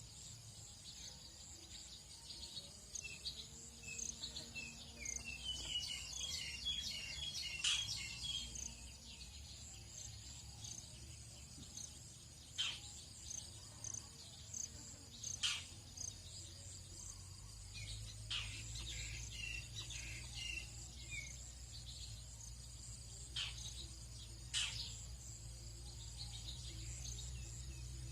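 Tropical dawn soundscape: insects chirping steadily and high, with a bird giving a run of short notes that climb in pitch a few seconds in and again later. Scattered sharp single calls come between the runs, over a low rumble that grows in the second half.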